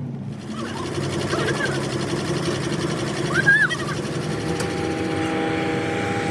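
An engine running steadily, with two short squeals that rise and fall, about a second and a half in and again about three and a half seconds in.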